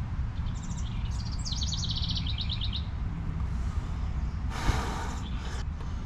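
A small songbird sings one phrase ending in a fast trill of rapid repeated high notes, over a steady low outdoor rumble. About three-quarters of the way in comes a short scraping rustle with a click.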